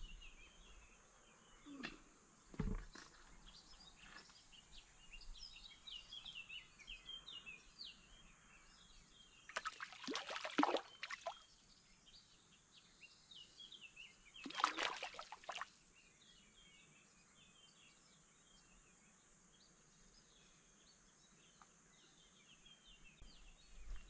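Outdoor ambience of small birds chirping and singing over a steady high hiss. A couple of knocks come a few seconds in, and two louder, short bursts of noise come about ten and fifteen seconds in.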